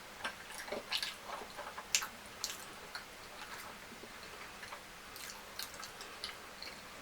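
Close-up eating sounds: wet chewing and lip smacks on mouthfuls of soft fufu and fish curry, coming as irregular sharp clicks and squishes, louder about one and two seconds in.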